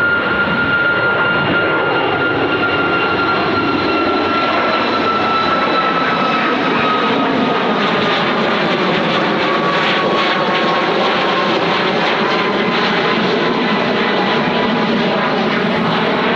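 Jet airliner's engines running loud and steady as it passes, with a whine that slowly falls in pitch over the first dozen seconds.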